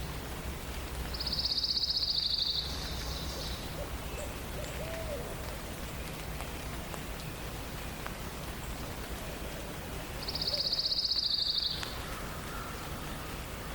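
A songbird sings a rapid, high trill of about a second and a half, twice, some nine seconds apart, over a steady background hiss.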